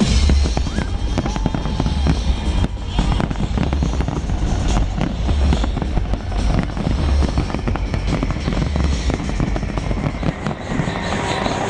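Fireworks going off in rapid succession, a dense run of cracks and bangs, over loud music with a heavy pulsing bass beat.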